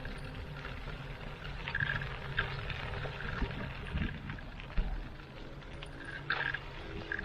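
Riding noise from a bike on the move: a low, steady rumble of wind and rolling tyres with scattered small clicks and rattles.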